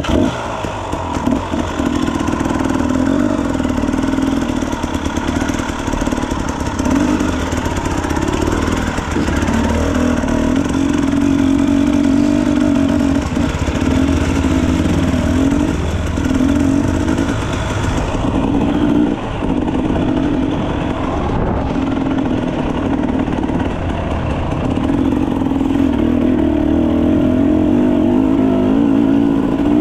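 Dirt bike engine running under way, its revs rising and falling with the throttle every second or two.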